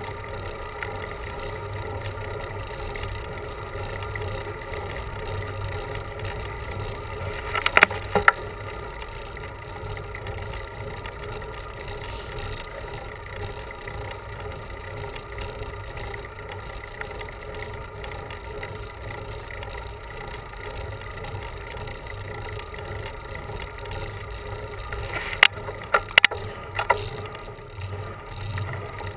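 Steady riding noise of a bicycle on a road climb, picked up by a camera on the bike: a constant rush of road and wind noise with a steady hum. A few sharp knocks come about eight seconds in and again near the end.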